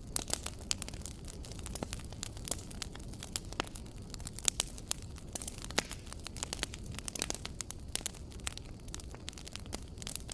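Wood fire crackling in a fireplace: irregular sharp pops and snaps over a low steady rumble of flames, with a louder pop about four and a half seconds in.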